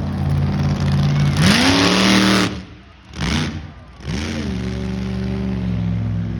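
Big truck's engine running, then revving up with a loud hiss. It cuts away sharply for about a second and a half, with one short burst in the gap, then picks up again with a rising pitch and runs steadily.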